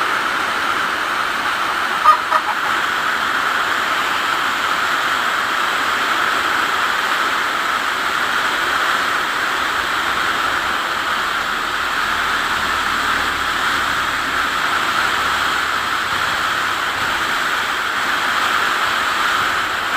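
Heavy rain pouring steadily. About two seconds in, a brief pitched call sounds twice in quick succession.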